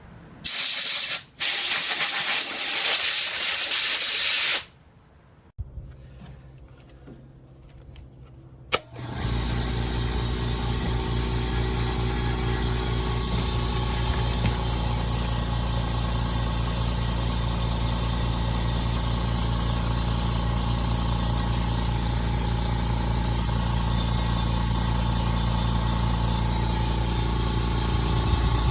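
Compressed air hissing out loudly for about four seconds, broken once briefly near the start. About nine seconds in, after a click, the APOLLOTECH 10-litre oil-less air compressor's motor starts and runs steadily.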